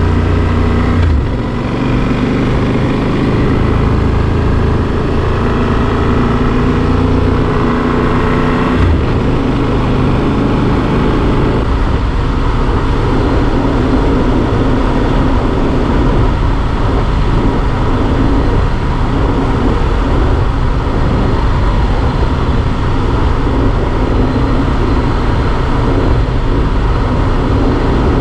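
Yamaha Super Ténéré XT1200Z's parallel-twin engine running steadily as the motorcycle rides along, with short changes in the engine note about a second in and again about nine seconds in.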